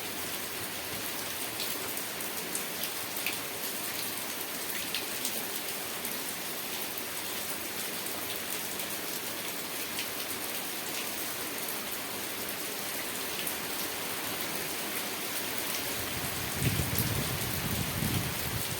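Steady rain falling, an even hiss sprinkled with sharp ticks of single drops. A few louder low thuds come in near the end.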